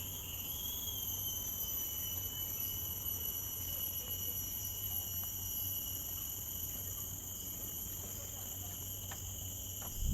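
Steady high-pitched insect chorus, several constant shrill tones layered together, over a low rumble.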